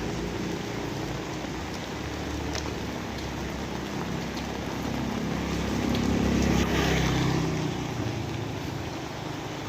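Steady rain falling, with a passing vehicle's engine hum that swells to its loudest about six to seven seconds in and then fades.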